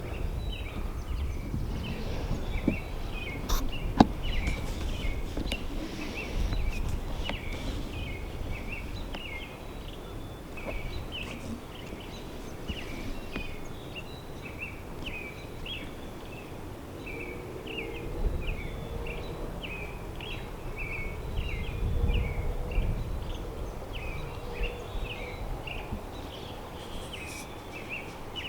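Small birds chirping in a dawn chorus, short high notes repeating a few times a second without a break, over a low rumble. A single sharp click about four seconds in.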